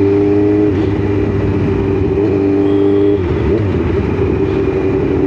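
Motorcycle engine running at a steady cruise, heard from the rider's own bike. The engine note holds steady, then wavers a little after about three seconds.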